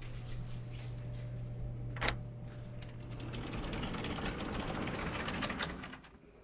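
A toiletry pouch being handled: one sharp click about two seconds in, then a few seconds of fine, rapid clicking as a zipper is pulled along, stopping shortly before the end. A low steady hum runs underneath and stops partway through.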